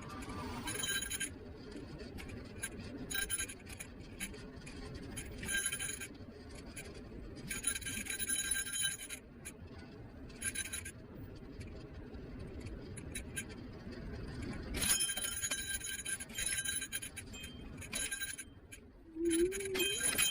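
Niu KQi3 Pro electric scooter in motion: a steady low rumble of the wheels on the pavement, broken by several one-to-three-second bursts of metallic jingling rattle.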